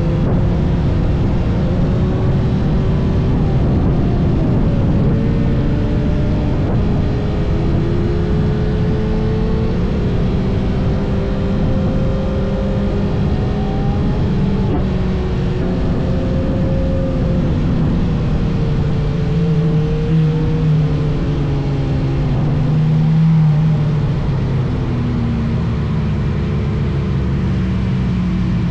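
A motorcycle engine running on the move, its pitch rising and falling as the rider speeds up and eases off. Heavy low wind rumble on the microphone lies under it.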